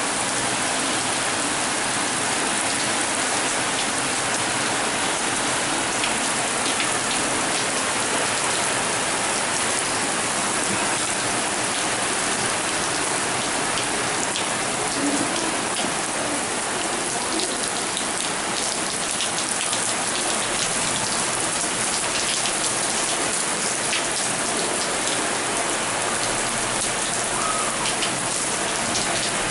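Heavy rain falling steadily, with a dense patter of drops hitting surfaces.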